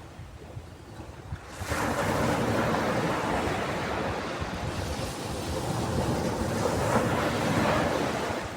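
Ocean waves: after a quieter lull, a wave breaks about one and a half seconds in, and its rush of surf goes on for several seconds before easing off near the end.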